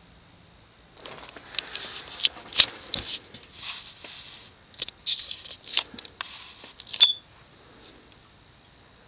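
Rustling and handling noise with a run of sharp clicks, ending with a loud click near the end.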